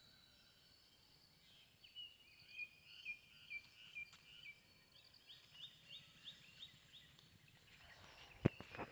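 A bird calling: a string of short high chirps, ending in a run of quick upward-sliding notes. Near the end come a couple of sharp footfalls on dry ground.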